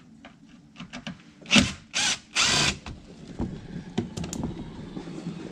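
A tool backs out the T30 Torx bolts of an undercar splash shield in three short bursts about a second and a half in, followed by a few light clicks.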